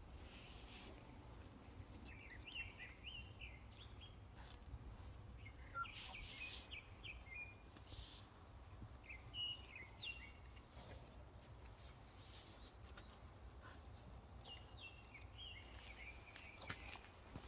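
Faint outdoor background: a steady low rumble with small birds chirping in short clusters of quick notes, four times, and a few soft rustles.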